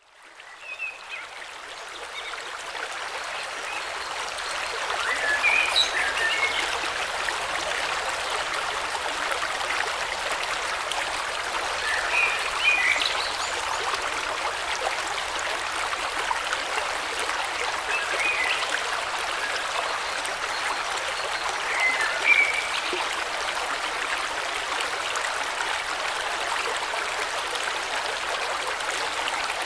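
River water flowing steadily, fading in over the first few seconds, with short bird calls about every six seconds.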